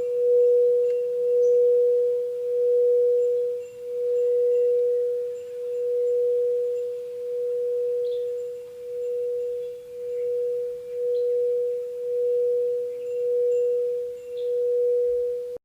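Singing bowl sounding a single sustained tone, a little under 500 Hz, that swells and fades about once a second. The tone cuts off suddenly at the end.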